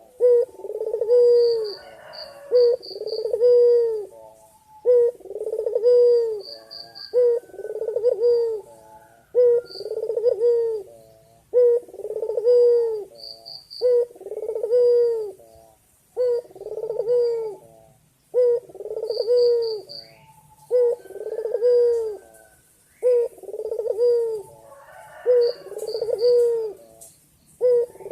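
Male white Barbary dove (puter putih) cooing over and over, a steady run of low arched coos about one every second and a bit, calling to a female. Small high chirps of other birds sound now and then above the coos.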